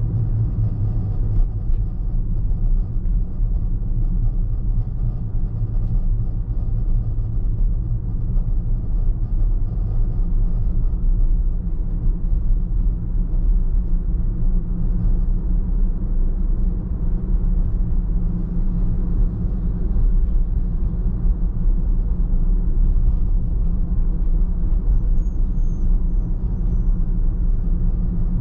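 A car driving at a steady pace: a steady low rumble of engine and road noise with no distinct events.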